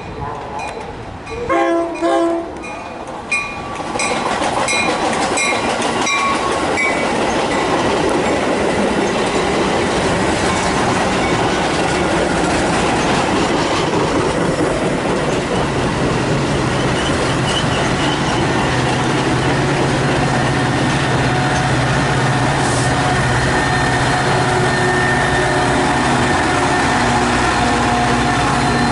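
Train horn sounding two short blasts a couple of seconds in, with a bell-like ringing, then a train passing close at speed: a steady loud rush of wheels on rail with clickety-clack, and a locomotive's low diesel engine drone joining in the second half.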